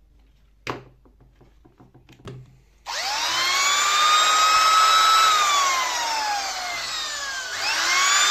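Restored vintage Fein 180 W electric drill running: after two sharp clicks, its motor starts with a whine that rises as it spins up. The whine falls as the motor runs down a little past halfway, then climbs again near the end.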